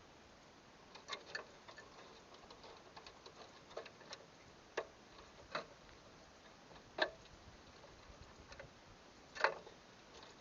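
Faint, irregular light clicks and taps, a dozen or so, unevenly spaced, the loudest about seven and nine and a half seconds in, over low hiss.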